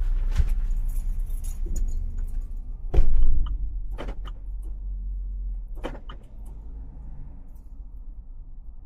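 A car's low engine and road rumble with a few sharp clicks and a louder thump about three seconds in; the rumble dies down after about six seconds.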